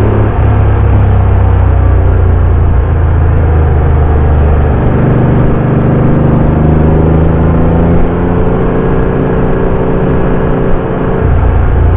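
Porsche 911 (964) air-cooled flat-six engine running under way, its note shifting up and down with the throttle, with a short drop in level just before the end.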